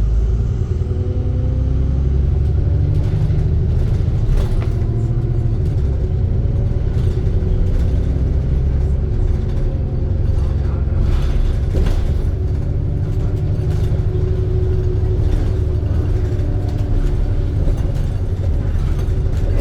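ADL Trident II Enviro 400 double-decker bus on the move, heard from on board: a steady low engine and road rumble, with the engine note rising and falling, and a few sharp knocks or rattles.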